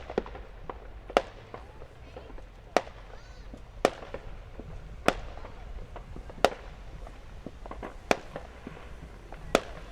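Fireworks going off: about eight sharp, single bangs, roughly one every second or so, over a low background rumble.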